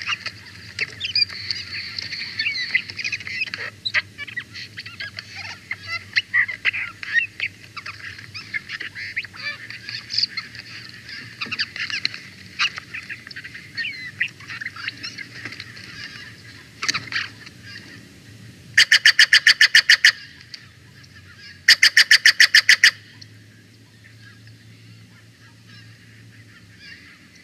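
Wild birds calling around the nest tree: a busy chatter of small birds' chips and twitters, then two loud, rapid series of harsh pulsed calls close to the microphone, about 19 and 22 seconds in.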